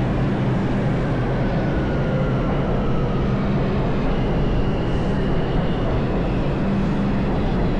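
New York City subway train running: a steady, loud rumble and rush, with faint whining tones that slide in pitch.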